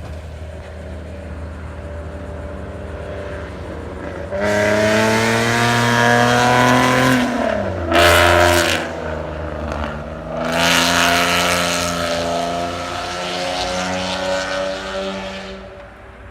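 Ford Mustang 3.7-litre V6, exhaust uncorked with an off-road X-pipe and no catalytic converters, accelerating hard as it comes by. It hums quietly, then the revs climb loudly about four seconds in, drop sharply around seven and a half seconds in, and climb again from about ten seconds in before fading away near the end.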